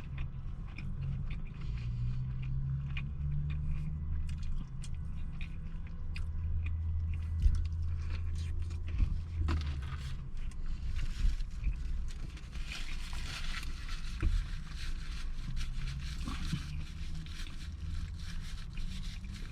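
A person eating a fried chicken sandwich close to the microphone: chewing and bites with many small crackles and crinkles, over a low steady hum.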